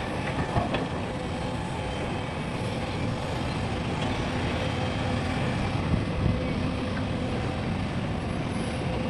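Engines of heavy diesel earthmoving machinery, an excavator and dump trucks, running steadily as a low, even drone.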